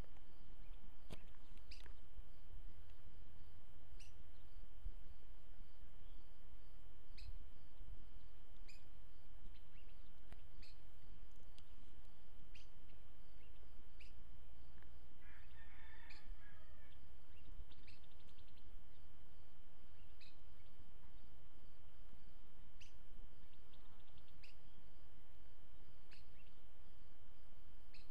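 Outdoor ambience with a bird giving short, sharp chirps every second or two and a brief fuller call about halfway through, over a steady low rumble and a faint steady high tone.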